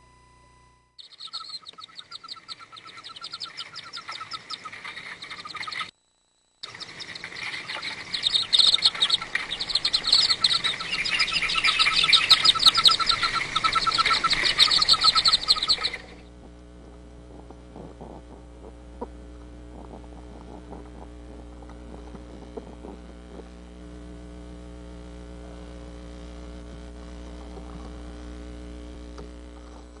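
Birds chirping in a dense, rapid, continuous stream, with a brief break about six seconds in. The chirping stops abruptly about halfway through, leaving a low steady electrical hum with a few faint clicks.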